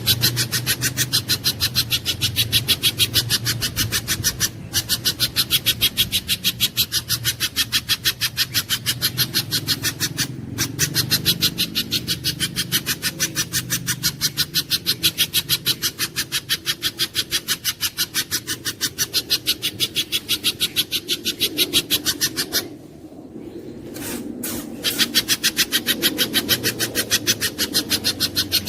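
Spiderhunter (pijantung gunung) calling: a long unbroken run of sharp, high chip notes at about four a second, pausing for roughly two seconds near the end.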